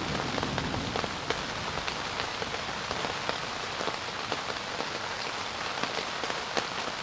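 Heavy rain falling steadily during a thunderstorm, with many separate drop hits standing out sharply against the steady rush.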